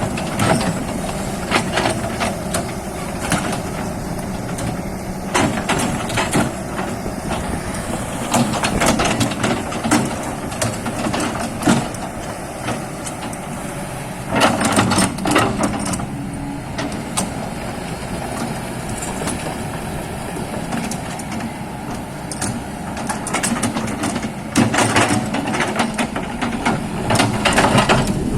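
Excavator's diesel engine running steadily, with repeated knocks and clatters from the machine working in mud. The clatter comes in louder clusters about halfway through and again near the end.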